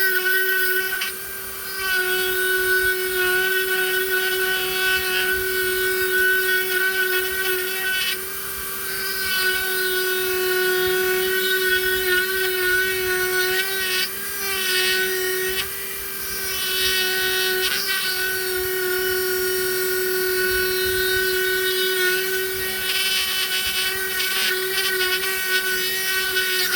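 Small high-speed rotary carving tool running with a steady high whine, its bit rasping as it grinds away wood in stretches that come and go, with a few brief dips where the bit lifts off.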